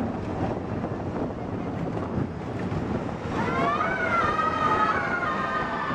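Steady rumbling and wind noise of an amusement-park ride train in motion. About halfway in, a high sound of several tones rises and holds for about three seconds.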